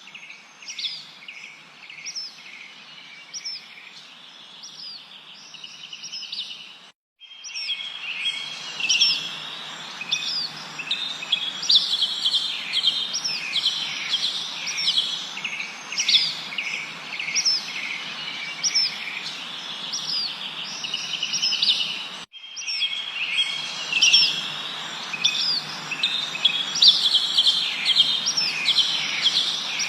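A dense chorus of several small birds chirping and trilling, with quick short notes over a steady background hiss. The sound cuts out for a moment twice, and the chorus is louder after the first break.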